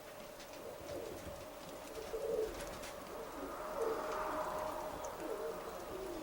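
Domestic pigeons cooing softly, low repeated coos.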